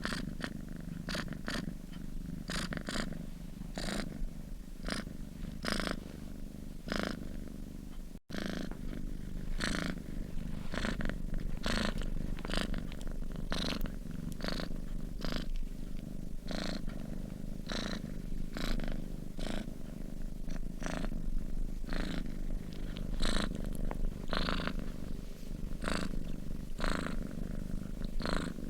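Domestic cat purring steadily while asleep, the purr swelling in an even rhythm of breaths. There is a very brief drop-out about 8 seconds in.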